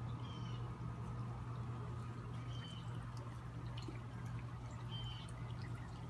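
A small bird's short, high call, heard three times a couple of seconds apart, over a steady low hum; light clicks in the second half.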